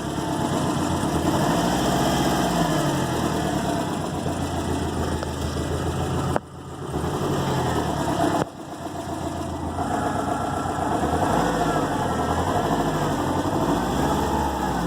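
Subaru WRX EJ255 turbocharged flat-four running, revved up and back down a few times with its pitch rising and falling. The sound breaks off abruptly twice in the middle. The owner is chasing a noise that he puts down to the timing belt.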